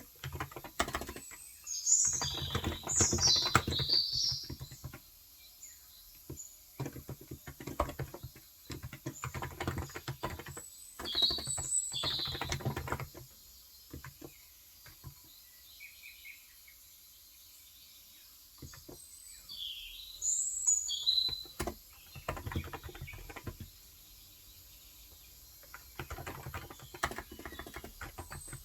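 Typing on a Cox Endeavor electro-capacitive (35 g, tenkeyless) keyboard in several runs of keystrokes with pauses between them. Birds chirp briefly in the background four or five times.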